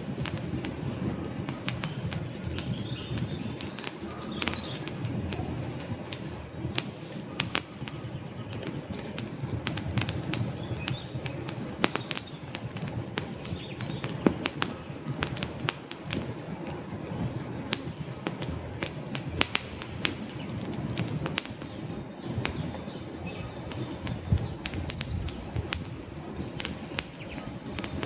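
Wood campfire burning, with frequent irregular sharp crackles and pops from the logs over a steady low rumble of flames.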